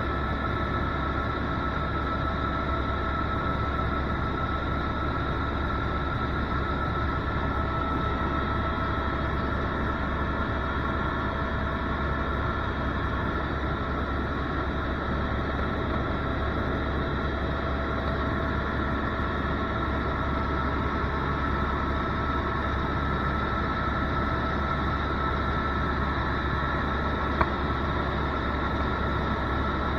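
Tour helicopter in flight heard from inside the cabin: a steady engine and rotor drone with a constant high whine. A single short tick sounds near the end.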